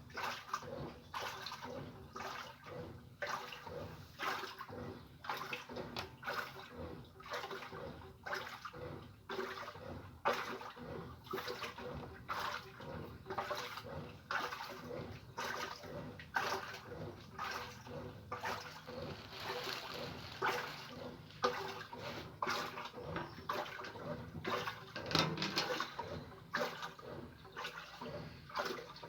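Easy washing machine with water sloshing and splashing inside the tub in repeated surges.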